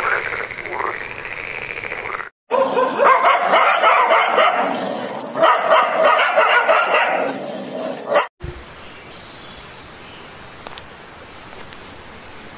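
A frog croaking for about two seconds, then dogs barking and yipping for about six seconds. After that comes a steady rush of flowing river water.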